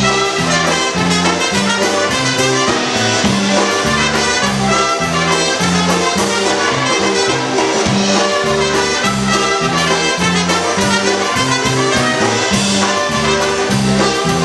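Live polka band playing an instrumental passage, brass carrying the melody over a steady bouncing bass beat.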